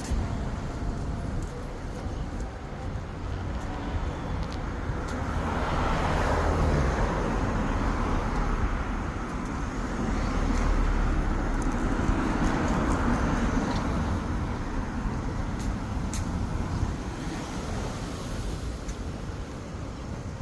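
Road traffic noise: a steady rumble of vehicles and tyres on the road, swelling louder about six seconds in and again around eleven to thirteen seconds, as if vehicles pass close by.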